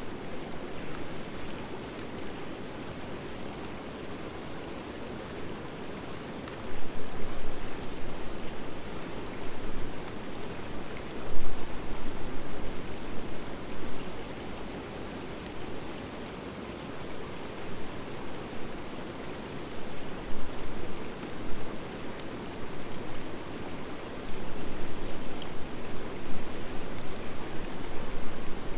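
Campfire of driftwood and dry hardwood logs burning with a steady rushing hiss, dotted with scattered small sharp crackles. Now and then the sound swells into a louder low surge for a second or so.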